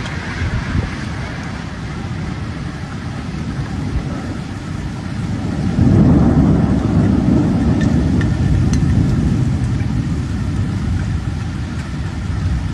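Storm wind and heavy rain, the wind buffeting the microphone with a deep rumble; a stronger gust comes about six seconds in.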